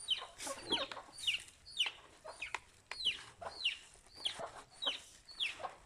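Chickens calling: short, high-pitched calls repeated about twice a second, each falling in pitch.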